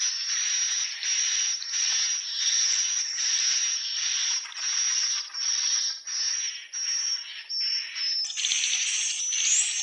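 Swiftlets calling: a stream of raspy, hissing chirps with a thin high whistle in them, pulsing about one and a half times a second. A little past the middle the calls turn louder and higher.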